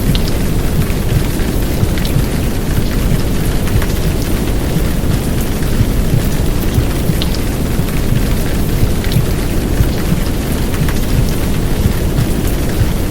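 Heavy downpour rain, a steady rush with scattered drop ticks, layered over a deep, continuous womb-sound rumble of the kind mixed in to soothe a crying baby.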